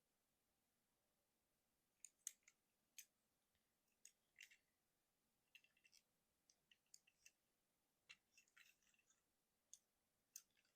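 Faint, irregular clicks and snaps of a plastic Transformers Motormaster action figure's joints and parts being moved during its conversion from robot to truck mode, starting about two seconds in.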